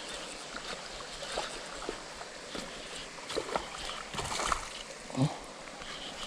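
Water splashing in short irregular bursts, with scattered small clicks and knocks: a hooked snakehead thrashing at the surface as it is played in.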